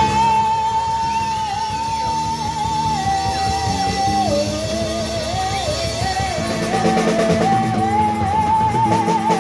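Live blues band playing: a high lead line held in long, wavering notes over electric guitar and drums.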